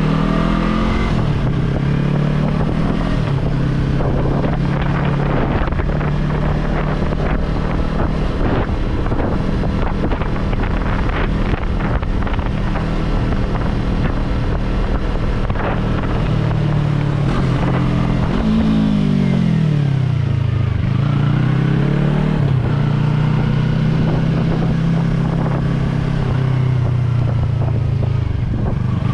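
Yamaha R3 motorcycle's parallel-twin engine running at a steady speed while riding, with wind noise on the microphone. About two-thirds of the way through, the engine note falls as the bike slows, then climbs again as it accelerates.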